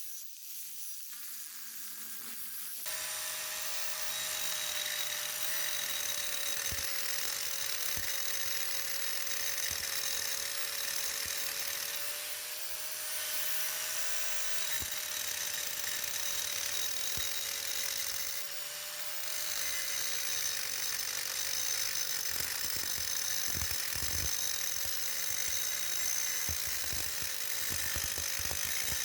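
Small high-speed power grinder starting about three seconds in and running with a steady whine, grinding metal to contour a welded motorcycle fender strut. It eases off briefly twice.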